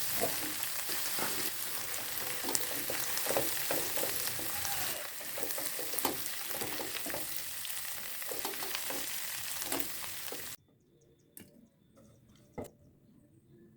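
Eggplant frying in a hot pan: steady sizzling with a spatula scraping and stirring through it. The sizzle cuts off suddenly about ten seconds in, leaving a few faint clicks and a single knock.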